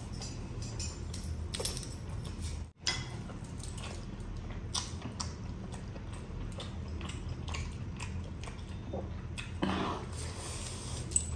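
Close-miked chewing and lip-smacking as a man eats biryani by hand, with scattered short wet clicks over a steady low hum. The sound cuts out for an instant just under three seconds in.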